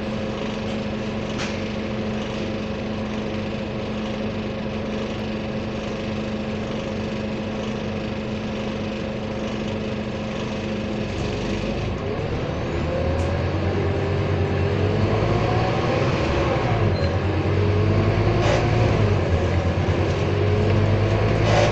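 Scania N230UD double-decker bus's diesel engine idling steadily, then, about half way through, revving up as the bus pulls away and accelerates, the pitch rising and falling through the gears.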